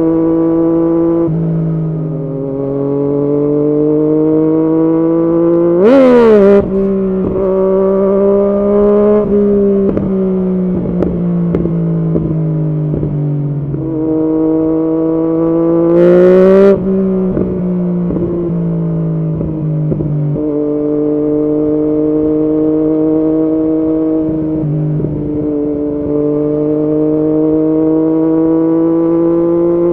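2016 Yamaha MT-09's three-cylinder engine running through an Arrow aftermarket exhaust at fairly steady revs. It rises sharply in revs twice, about six and sixteen seconds in, each rise breaking off abruptly, and a run of short pops follows the first.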